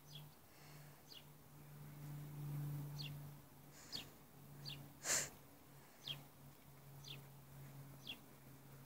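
A small bird repeating a short, falling chirp about once a second, over a steady low hum, with one sharp snap about five seconds in.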